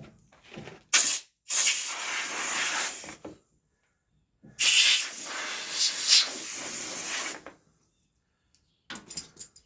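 Two hissing blasts of pressurized gas from a nozzle, each two to three seconds long and loudest right at the start, with a few light clicks before and after.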